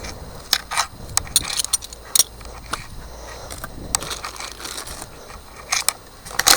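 Wrapped engine-kit parts being handled and set down: scattered light clicks and knocks with a faint rustle of packaging.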